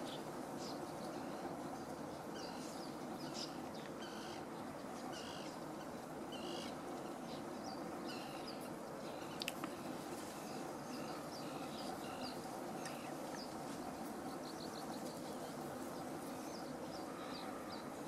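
Birds calling with short, high chirps every second or so, over a steady background hiss and faint hum, with one sharp click about halfway through.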